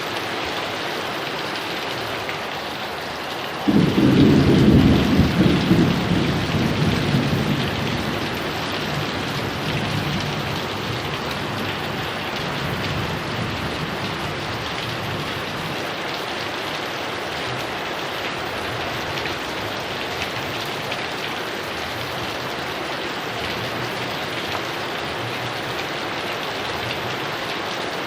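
Heavy rain falling steadily, with a loud clap of thunder breaking about four seconds in and rumbling away over the next several seconds.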